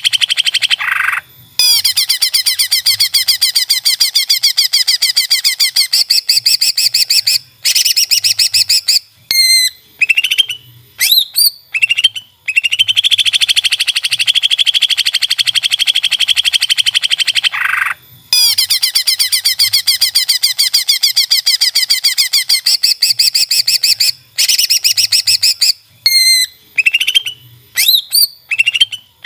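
Greater green leafbird (cucak ijo) singing: long runs of very fast rattling trills broken by short pauses, with brief rising and falling whistled notes about a third of the way in and again near the end.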